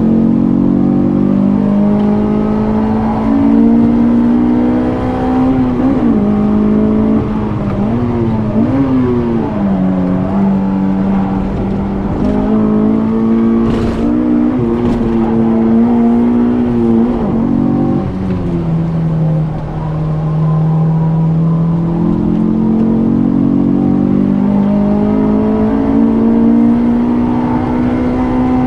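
Honda S2000's F22C 2.2-litre inline-four running hard under load, heard from inside the cabin through its J's Racing 70RS exhaust. The engine pitch rises and falls as the car is driven, with short quick jumps in pitch around eight to nine seconds in. It sits lowest about twenty seconds in, then climbs steadily.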